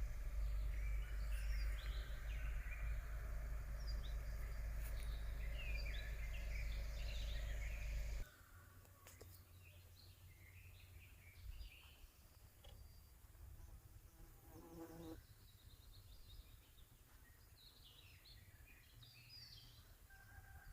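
Forest songbirds singing and chirping, over a low steady rumble that cuts off abruptly about eight seconds in. After that the birds are quieter, with a brief low buzz about fifteen seconds in and more chirps near the end.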